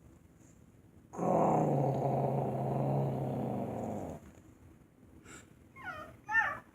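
A growl voiced by a person imitating an animal, held steadily for about three seconds, then short rising and falling meow-like cries near the end.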